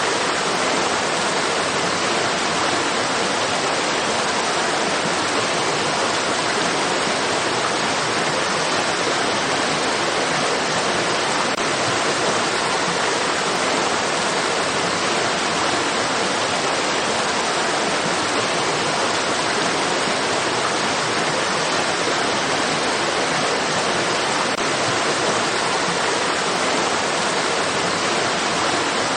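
Rushing stream water: a steady, even hiss of flowing water that does not change.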